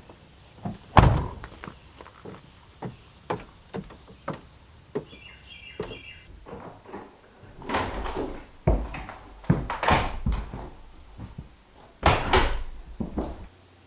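A run of irregular knocks, clunks and thumps, like a door being handled and shut; the heaviest thump comes about a second in, with clusters of clunks again near the middle and shortly before the end.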